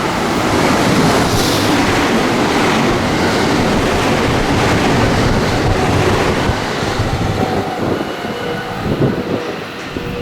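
A JR West train passing through the station at speed without stopping: a loud rush of wheel and air noise that builds over the first second, holds, then eases off over the last few seconds.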